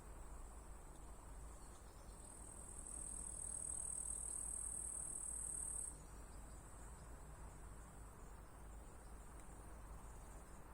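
Insects trilling, a steady high-pitched buzz that swells louder about two seconds in and cuts off suddenly about six seconds in, then goes on faintly.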